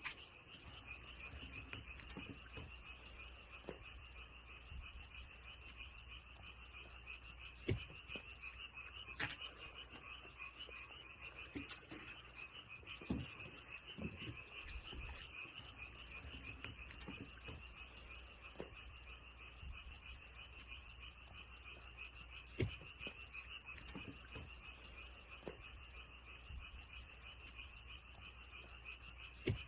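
A frog calling in a steady, rapidly pulsing high trill, with a few soft knocks now and then.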